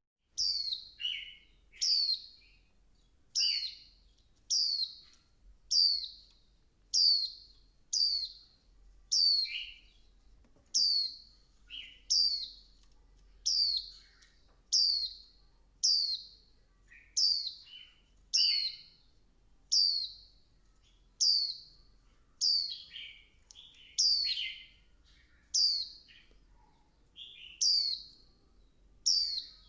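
Female white-eye calling: short, high notes that fall in pitch, repeated evenly a little under once a second, some followed by a lower second note. It is the female's call that stirs male white-eyes into singing.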